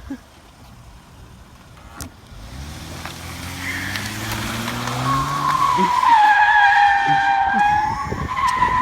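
A car's engine revs up, and from about halfway its tyres squeal in a loud, wavering howl as they spin and slide, growing louder toward the end.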